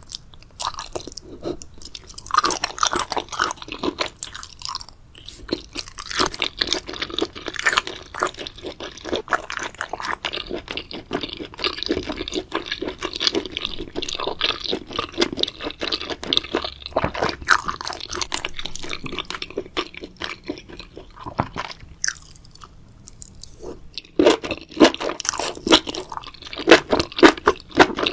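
Close-miked chewing of crunchy food: rapid crackling crunches, quieting briefly a little after two thirds of the way through, then louder crunching again near the end.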